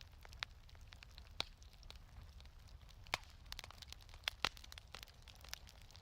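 Wood fire crackling in a fireplace: irregular soft crackles and sharper pops over a faint low rumble, the loudest snaps a little after three seconds and around four and a half seconds in.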